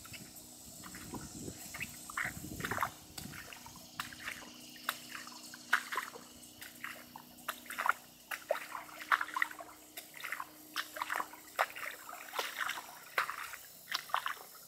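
Footsteps wading through shallow floodwater: irregular splashing and sloshing several times a second.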